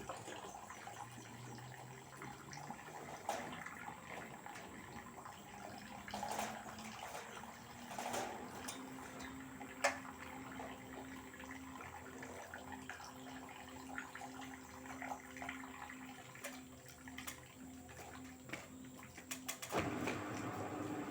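LG direct-drive washing machine partway through a cotton 60°C wash: water sloshing in the drum with scattered clicks, over a low motor hum that climbs a little in pitch and then holds with a slight pulse. Near the end a louder rushing of water comes in.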